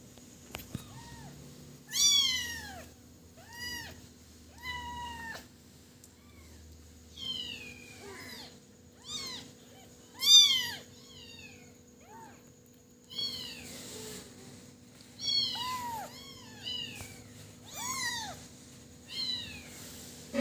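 Kitten meowing over and over: high-pitched crying calls that rise and fall in pitch, about one a second, the loudest about halfway through.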